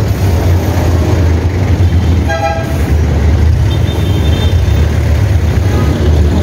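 Busy road traffic heard from a moving bicycle: a steady low rumble of engines and road noise, with a short vehicle horn toot about two seconds in and a faint high beep a couple of seconds later.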